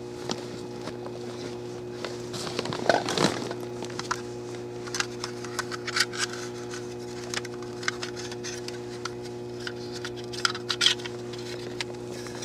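Electrical transformer humming steadily, with scattered close-up clicks and rustling of gear being handled over it.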